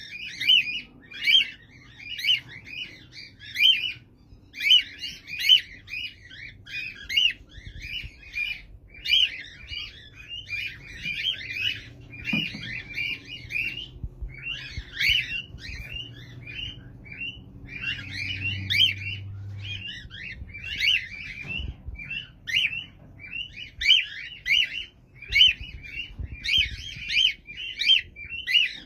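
Small pet parrots chirping and chattering, a fast, unbroken run of short high chirps with only brief pauses.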